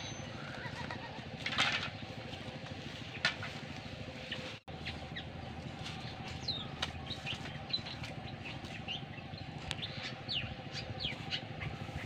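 Outdoor ambience with a steady low hum. Two sharp knocks come in the first half, and many short, quick, falling bird chirps follow in the second half.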